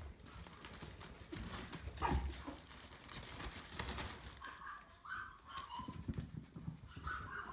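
Maltese puppies giving short, high squeaks and whimpers a few times in the second half, over scattered light taps and scuffles.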